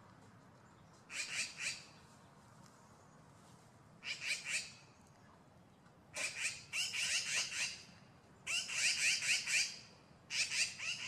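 Magpies giving harsh rattling chatter calls, the alarm chatter that draws other magpies in. Five bursts of rapid repeated notes, the later ones longer and louder.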